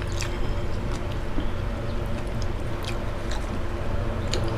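Close-up eating sounds: chewing and mouth smacks of people eating lomi, a thick egg-noodle soup, with scattered short clicks, over a steady low hum.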